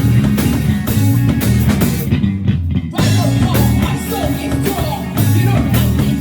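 Live rock band playing, with drum kit, bass and electric guitar. The cymbals and highs drop out briefly about two seconds in, and a voice sings over the band after the break.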